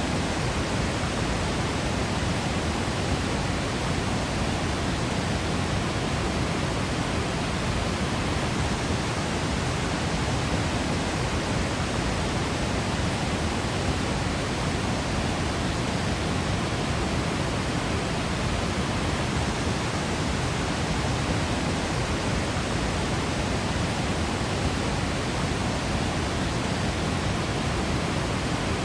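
Waterfall's steady rush of falling water, an even, unchanging wash of noise with plenty of deep rumble under the hiss.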